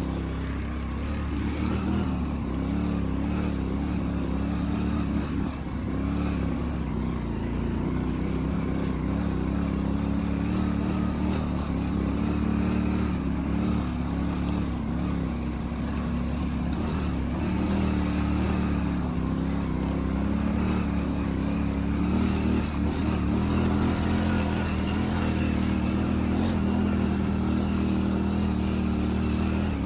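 Motorcycle engine running steadily while riding, its pitch drifting gently up and down with the throttle.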